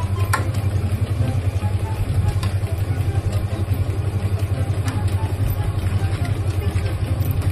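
Large wooden dog exercise wheel rumbling as a dog runs on it, a steady low drone that pulses rapidly, with a few faint knocks from paws on the deck.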